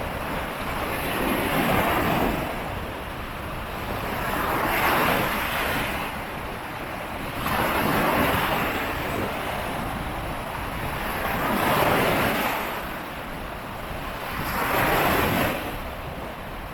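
Ocean waves washing onto the beach in a steady rhythm, the rush swelling and fading about every three seconds, five times in all, with wind buffeting the microphone.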